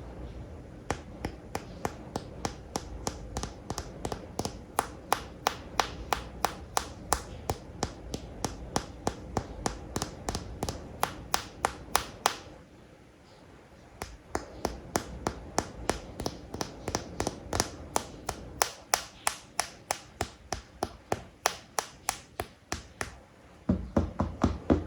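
Tapping on plastic animal toy figures: a steady run of sharp taps, about three or four a second, broken by a pause of about a second and a half midway, with a few heavier, deeper knocks near the end.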